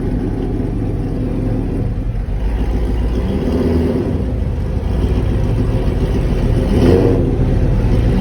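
A car engine running with a deep exhaust note, revving up briefly about seven seconds in.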